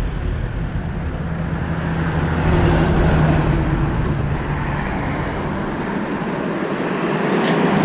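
A motor vehicle's engine running close by in street traffic: a steady low hum that grows a little louder around three seconds in, then eases off.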